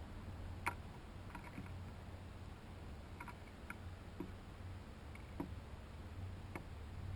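Scattered light clicks and taps of small birds at a seed feeder, about half a dozen irregular ticks with the sharpest one near the start, over a steady low hum.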